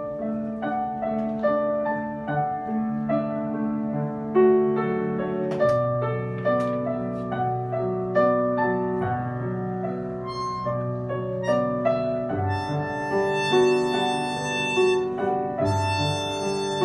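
Live instrumental music at a slow, even pace, led by piano-like notes, with brighter sustained notes joining about halfway through.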